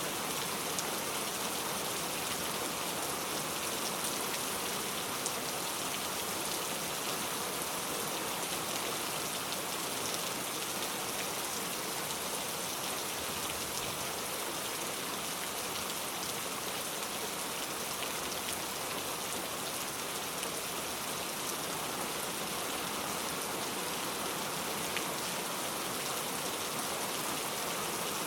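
Steady rain falling, an even hiss of rain with scattered faint drop ticks.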